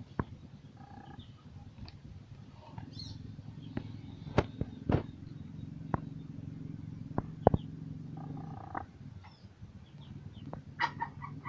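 Steady low hum of a small motor, strengthening about three seconds in, with several sharp clicks in the middle and faint bird chirps.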